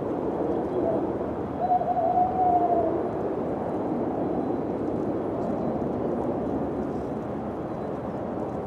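Steady wind blowing, with a single short moaning tone that rises and falls slightly, about two seconds in.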